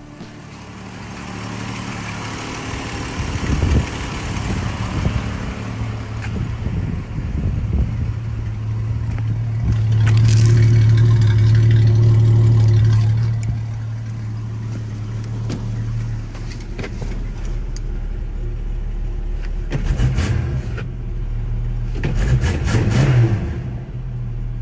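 1969 Ford Falcon Futura's freshly rebuilt engine running, getting louder about ten seconds in and holding there for a few seconds before settling back. A few knocks come over it.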